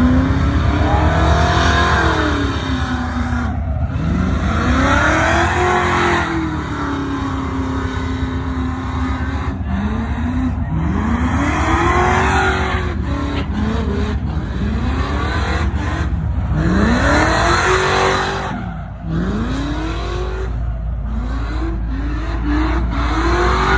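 Truck engine revved hard over and over, its pitch climbing and dropping about every two seconds over a steady low rumble.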